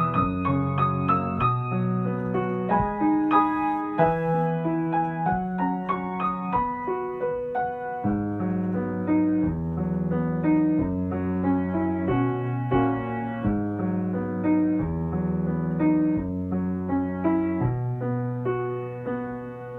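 Solo piano music: chords and melody notes over held bass notes in a steady, gentle rhythm, getting a little softer near the end.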